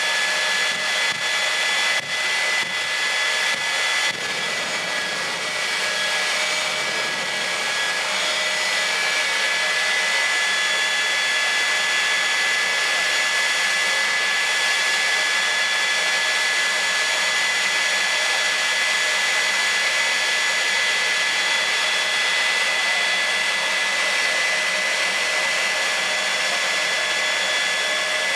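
Jet turbine engine of a drag-racing jet car running steadily, a continuous rush of noise with a high, unchanging whine.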